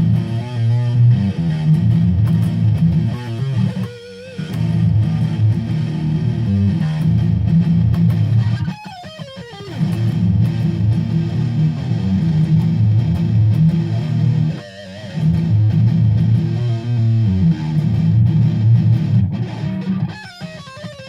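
Electric guitar in drop C# tuning playing a heavy, low riff, with short breaks about 4, 9 and 15 seconds in and a sliding drop in pitch around the 9-second break.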